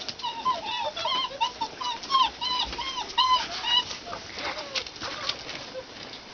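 German Shepherd puppies whining and squeaking: a quick run of short, high, rise-and-fall cries, about three a second, for the first few seconds, then fainter, with small clicks and scuffles throughout.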